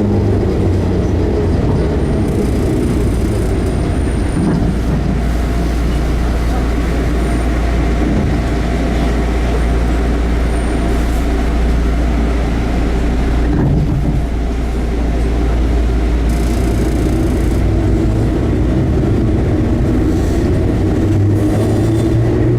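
Enshu Railway 30 series electric train running, heard from inside the car: a steady running rumble, with the traction motor whine falling in pitch at the start as it slows and rising again near the end as it picks up speed.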